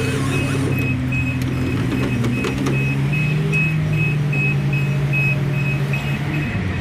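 Heavy truck's diesel engine running; its note rises a little midway and falls off near the end. A thin high beep repeats rapidly, about three times a second, over the engine.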